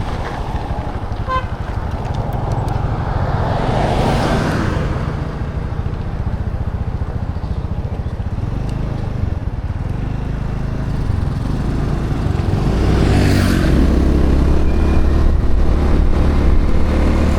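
Motorbike engine running under way, with steady wind and road rumble. About twelve seconds in, the engine note comes through more strongly and the sound grows louder as the bike picks up speed.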